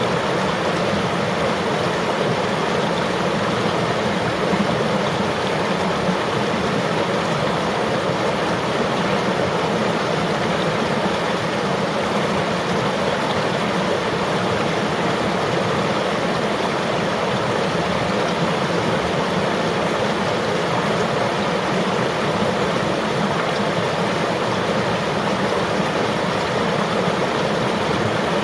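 River water flowing steadily over rocks: a continuous, even rushing.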